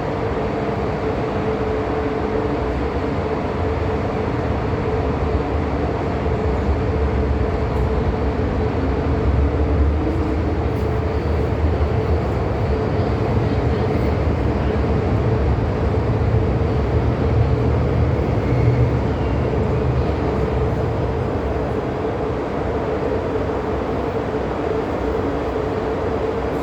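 MTR M-Train electric metro train running on the line, heard from inside the passenger car: a steady low rumble of wheels on rail with a constant hum, the rumble swelling for several seconds in the middle.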